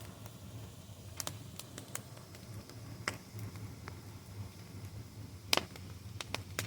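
Fire crackling: scattered sharp pops, a few seconds apart, the loudest about five and a half seconds in and a quick cluster near the end, over a low steady rumble.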